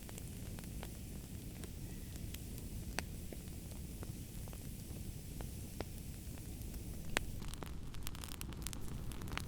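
Wood fire crackling in a fireplace: a steady low rumble of burning with scattered sharp pops and snaps, which come more often from about seven seconds in.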